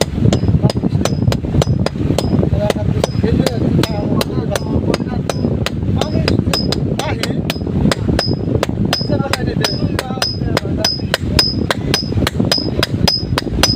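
Blacksmith's hammer striking metal in a steady rhythm, about three blows a second, each blow with a short high metallic ring.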